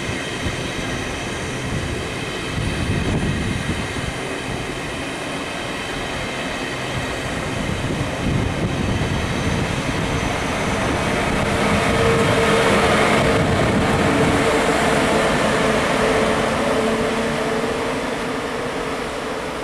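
Double ICE 2 high-speed electric train rolling slowly past at about 30 km/h under a speed restriction for run-down track. It makes a steady rumble of wheels on rail with a faint steady whine, growing louder about twelve seconds in.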